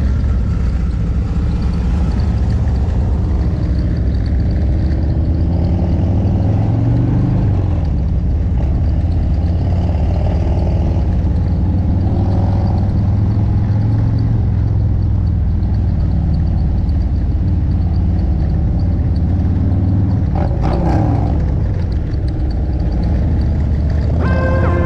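Harley-Davidson Road King's V-twin engine running as the motorcycle rides off, its pitch rising and falling with the throttle and gear changes about seven and twelve seconds in. Music comes in right at the end.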